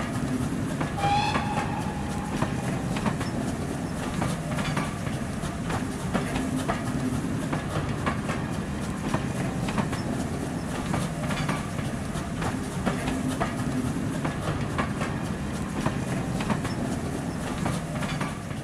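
Train coaches running past, with a steady rumble and wheels clicking rhythmically over rail joints. A short whistle-like tone sounds about a second in.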